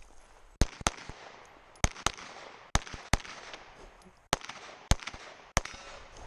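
Pistol shots fired in a rapid string, about nine in all, mostly in quick pairs (double taps) with short gaps between them.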